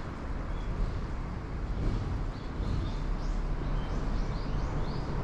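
Short high bird chirps, a few in quick succession about two and a half seconds in and again a little later, over a steady low rumble.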